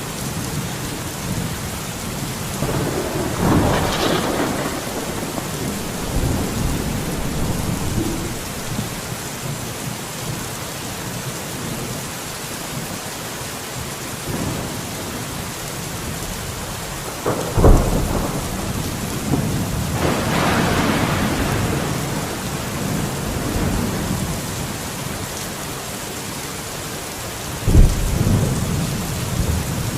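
Steady rain falling, swelling louder twice. There are two sudden low booms, one a little past the middle and one near the end.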